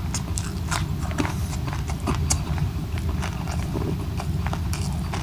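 Close-up crunchy chewing of a bite of raw cucumber: irregular crisp crunches and mouth clicks, several a second.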